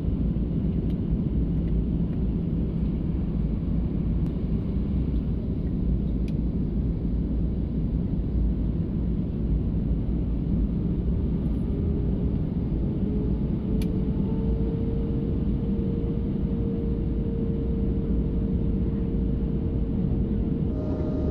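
Steady low rumble of engine and airflow noise inside an airliner cabin. A faint tone rises slowly about halfway through, then holds steady.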